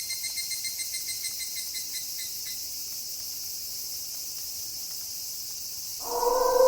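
Night ambience of insects, a steady high hiss with a rapid pulsing trill that fades out in the first couple of seconds. Near the end a wolf howl begins, one long steady call.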